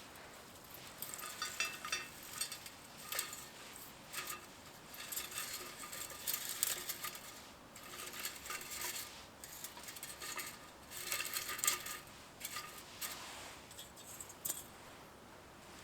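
Small metal items clinking and rattling in irregular bursts over several seconds, as when camp cookware or utensils are handled.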